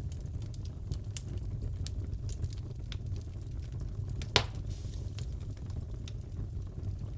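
Wood fire in a fireplace crackling: a steady low rumble with scattered small pops, and one sharper, louder crack about four seconds in.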